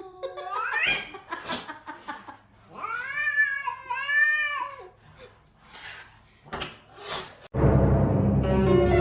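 A cat yowling: a drawn-out meow rising in pitch at the start and a longer wavering yowl a few seconds in, with a few clicks between. About two-thirds of the way in it cuts off abruptly to loud music with held, horn-like tones.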